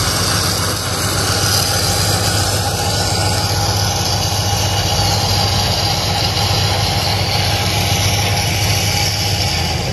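Mahindra Thar's engine idling steadily, under a constant high hiss.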